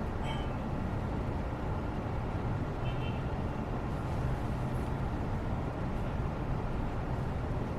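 Steady low rumbling background noise, like distant traffic or a ventilation hum, with a faint short high sound about three seconds in.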